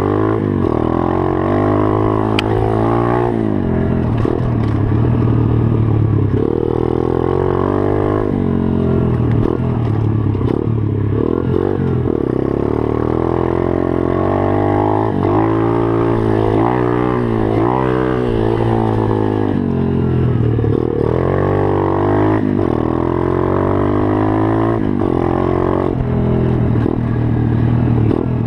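Small pit bike engine revving up and down as it is ridden, its pitch rising and falling again and again with the throttle.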